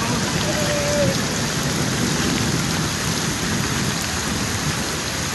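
Rain falling steadily, a dense even hiss with a low rumble underneath.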